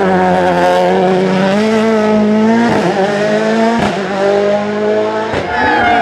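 Rally car engine running hard at high revs, its pitch held nearly steady and climbing slightly, broken three times by brief sharp cuts.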